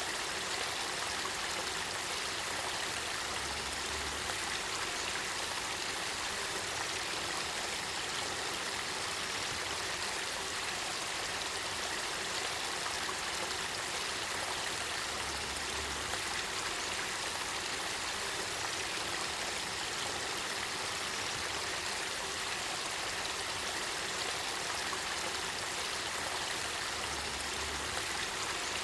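Spring-fed river water flowing, a steady rushing and babbling hiss with no breaks.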